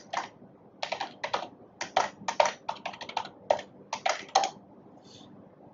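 Computer keyboard being typed on: a run of about twenty irregular keystrokes that stops after about four and a half seconds.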